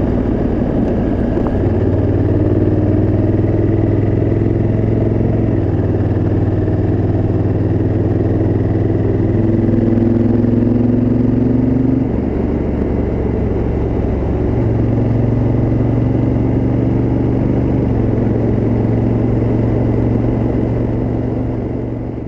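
Honda Africa Twin CRF1000L's parallel-twin engine through its original exhaust, running steadily while riding, its pitch shifting several times with throttle and gear changes, most sharply with a drop about 12 seconds in. The sound fades out near the end.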